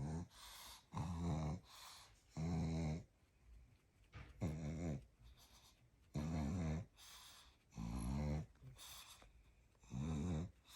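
A sleeping pug snoring in a steady rhythm: a loud snore roughly every one and a half seconds, about seven in all, with quieter breaths between them.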